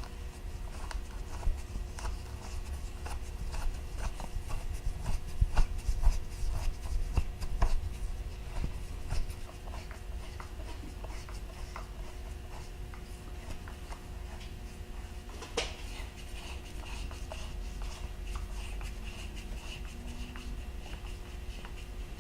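Irregular small clicks, taps and scrapes of hand tools and sheet-metal parts being worked by hand, over a steady low shop hum, with one sharper click about two-thirds of the way through.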